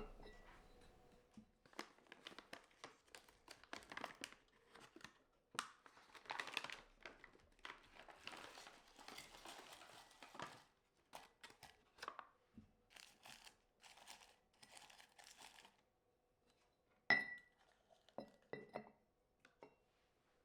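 Soft crinkling and rustling of wrapping being handled, in many short bursts. About three-quarters of the way through comes one sharp knock with a short ring, then a few lighter knocks.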